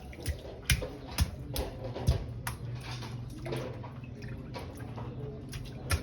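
Rainwater dripping and splashing in irregular sharp drops, a few a second, over a steady low hum.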